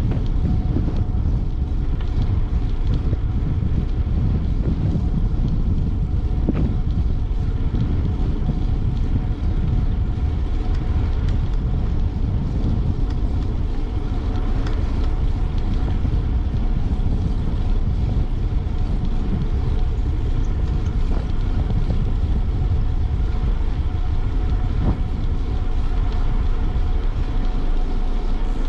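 Steady wind noise rushing over the microphone of a camera riding on a moving bicycle: a dense, even low rumble with no breaks.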